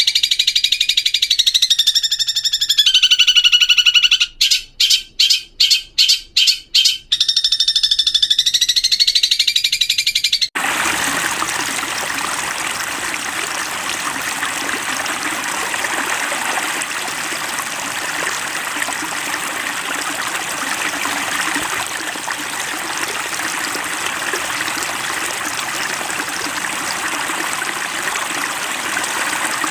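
Long-tailed shrike (cendet) calling in a long, wavering, shrill note with a quick stuttering run of about eight short notes in the middle. It cuts off abruptly about ten seconds in, giving way to the steady sound of a running stream.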